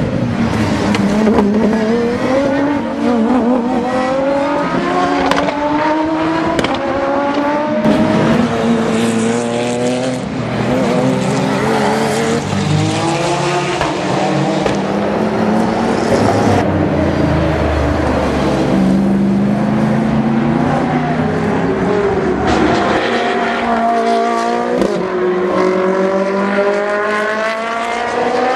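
GT3 race car engines at full throttle as cars pass, their notes climbing and dropping back again and again as they shift up through the gears.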